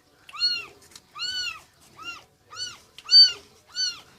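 Newborn kitten mewing: six short, high calls, each rising and falling in pitch, one about every half second.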